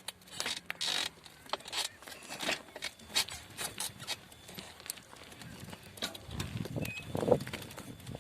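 A bicycle being ridden, with irregular clicks and knocks from its rattling parts.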